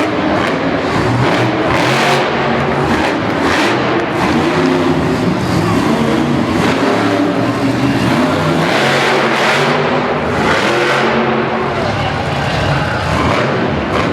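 Monster truck engines, supercharged big-block V8s, revving hard and rising and falling in pitch over and over.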